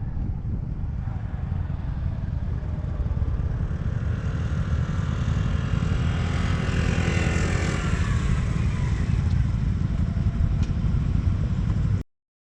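Motorcycle engine running under a heavy low rumble of wind on the microphone. Its note rises and then falls in the middle. The sound cuts off abruptly near the end.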